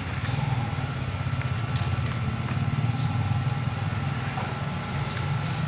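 Motorcycle engine running steadily at idle, just after its fuel filter has been replaced.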